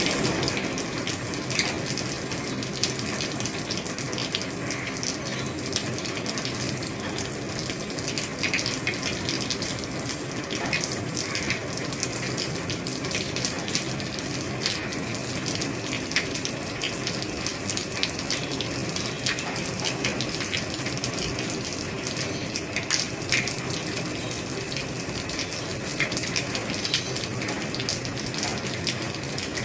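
Heavy rain falling on an old roof: a steady rush of water dotted with many sharp drop ticks. A faint, thin, high steady tone joins in about twelve seconds in.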